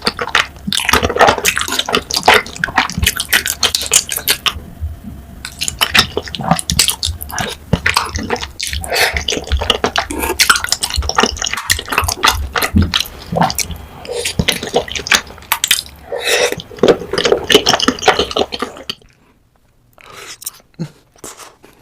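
Close-miked eating of cheesy rose tteokbokki: wet, sticky chewing and smacking with many sharp clicks. It drops much quieter for a couple of seconds near the end.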